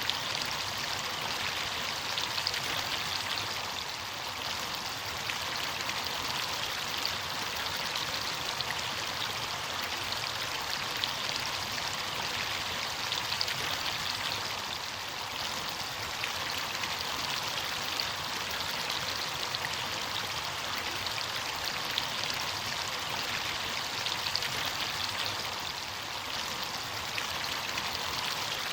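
Running water of a stream or small cascade, a steady, even rush with fine splashing throughout.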